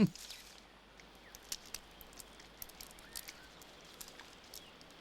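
Faint outdoor ambience with scattered light crackles and rustles, like leaves and twigs being disturbed in the trees.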